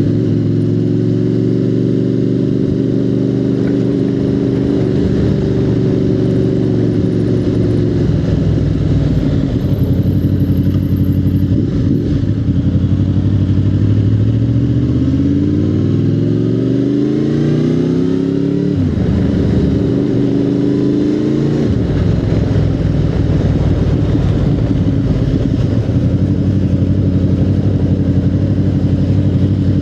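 Motorcycle engine running under way. About halfway through it revs up, drops sharply at a gear change, climbs again and drops at a second shift, then settles to a steady pitch.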